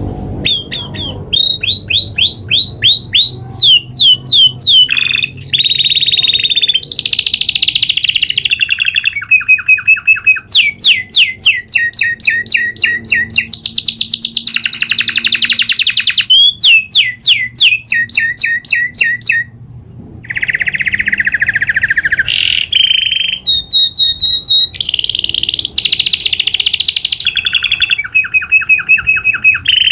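Domestic canary singing a long, unbroken rolling song: fast trills of repeated notes, rapid down-sweeping whistles and buzzy rolls, changing phrase every second or two with a brief pause about twenty seconds in.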